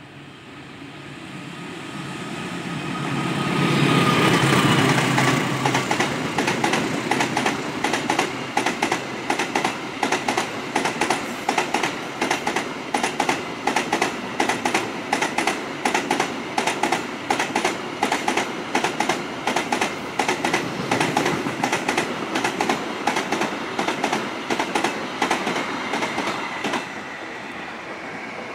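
A CC206 diesel-electric locomotive approaches and passes, loudest about four seconds in. A long train of box wagons then rolls by with a steady, rhythmic clickety-clack of wheels over rail joints, which eases off near the end.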